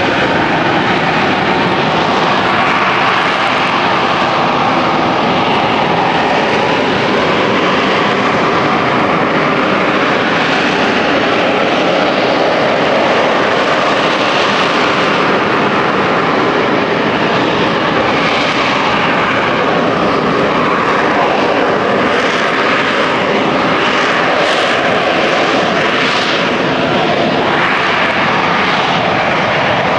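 Aircraft engine running loud and steady, with no change in level.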